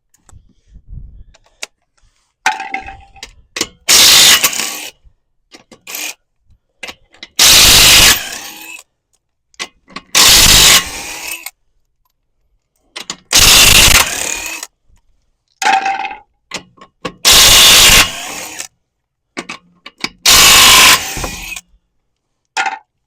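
Impact wrench spinning off lug nuts: six loud bursts of about a second each, roughly three seconds apart, with quiet gaps between.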